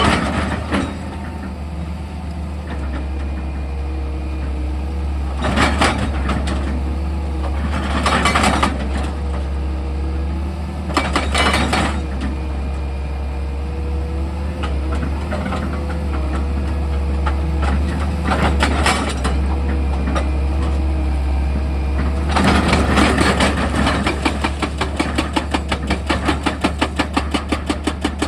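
Excavator engine running with a steady low hum. About five times, a short burst of loud, rapidly pulsing noise breaks in, and near the end the sound turns into a fast, regular pulsing.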